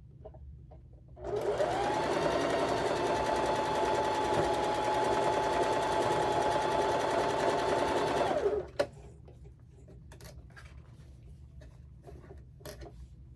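Sewing machine stitching a seam at a steady speed for about seven seconds, starting a second in. Its motor whine rises as it speeds up and drops as it stops. A sharp click follows just after it stops, then light rustling.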